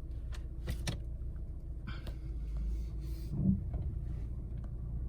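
Honda HR-V's engine running at low speed, heard from inside the cabin as the car starts to back up. A few sharp clicks and knocks come in the first two seconds.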